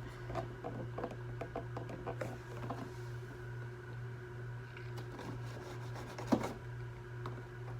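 Cardboard action-figure box being handled and its flaps worked open: scattered small taps, rubs and clicks, with one sharper knock about six seconds in, over a steady low hum.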